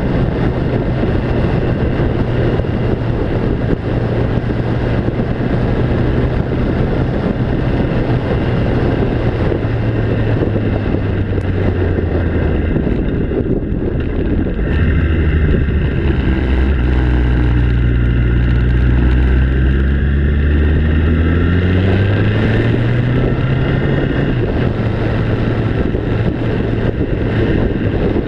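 Engine of a moving vehicle running under a steady rumble of road and wind noise; its note sinks through the middle and climbs back up near the end.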